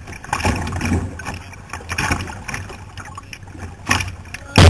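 Water splashing and sloshing around a kayak as it is paddled, with two loud splashing bursts near the end.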